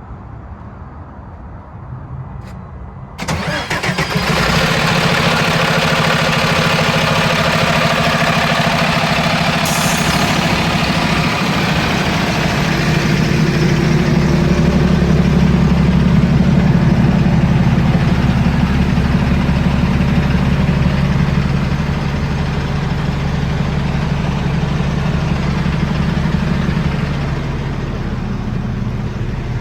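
Detroit DD8 7.7 L turbo-diesel engine in a 2019 Freightliner M2-106 truck starting about three seconds in, then running at a steady idle. It runs a little faster for several seconds before settling back, with a short hiss about ten seconds in.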